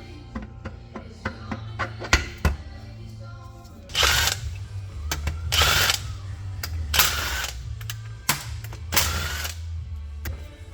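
A power tool running in four short bursts of about half a second to a second each, with sharp metallic clicks and knocks between them, over steady background music.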